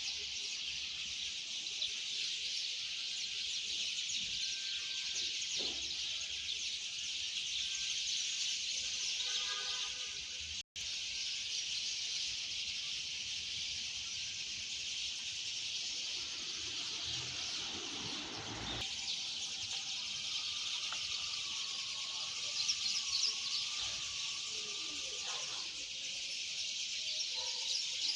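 Dense chorus of many birds chirping and twittering together in a steady high chatter. It cuts out for an instant about a third of the way through, and a low rumble swells and stops just past the middle.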